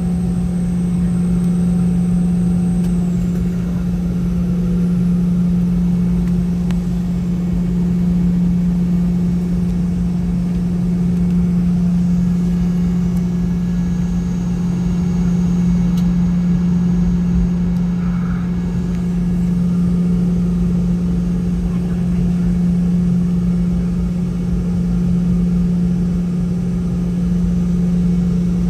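Steady engine drone heard inside the cabin of a Boeing 717-200, its rear-mounted Rolls-Royce BR715 turbofans running at a low, even setting. A strong steady hum sits over a low rumble, with no spool-up.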